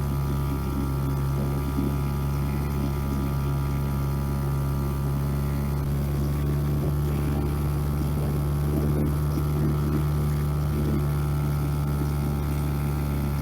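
Boat motor running at a steady, even speed, a constant engine hum with no change in pitch.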